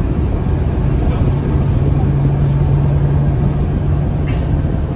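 Scania K230UB city bus's five-cylinder diesel engine running under way, heard from on board: a steady low drone with a held low tone from about a second in until about four seconds in.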